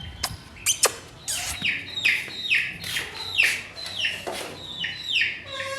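A small caged bird calling in a steady run of short falling chirps, about two a second, after a few sharp clicks in the first second.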